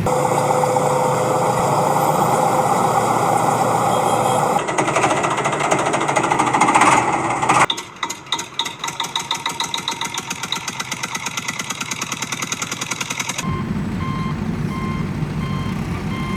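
Heavy-vehicle sounds: a machine running for the first several seconds and rising in level, then a fast rattling pulse at about five a second. Near the end, a low engine hum with a truck's reversing beeps returns.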